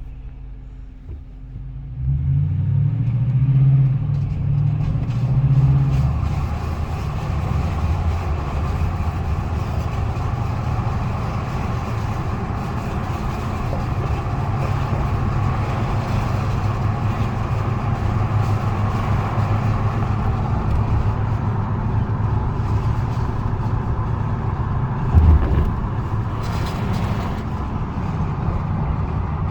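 Toyota Tundra pickup running cold. About two seconds in it gets louder, with a rise in pitch over a few seconds, then it runs steadily. A short knock comes near the end.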